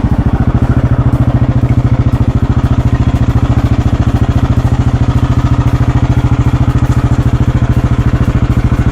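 Husqvarna 701 Enduro's single-cylinder engine running steadily at low revs, a rapid, even pulsing beat.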